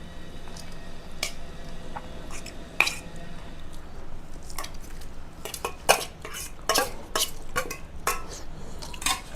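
Irregular clinks and scrapes of plates and serving utensils as a meal is eaten, with the clinks coming thicker in the second half.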